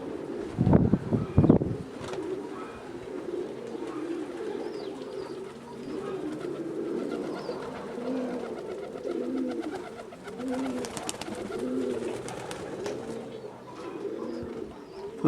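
Domestic pigeons cooing, one coo after another, with wind gusting on the microphone about a second in.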